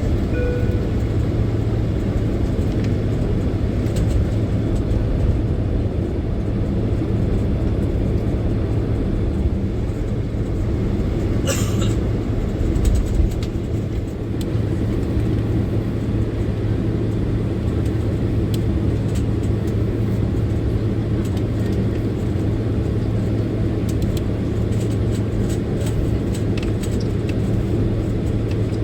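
Steady engine hum and low rumble heard from inside the cabin of a Boeing 767-300ER on the ground, with light rattles and clicks from the cabin fittings and a short clatter about twelve seconds in.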